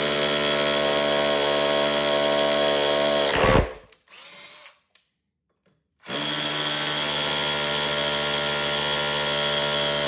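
Brushed Ryobi SDS hammer drill in hammer-drill mode, boring into brick with a 1/4-inch bit: a steady run that stops about three and a half seconds in, then a second run starting about six seconds in.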